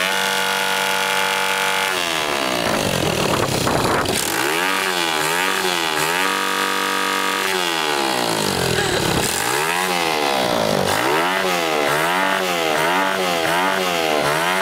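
Dirt bike engine revving: held at high revs for about two seconds, then blipped up and down over and over, its pitch rising and falling roughly once a second.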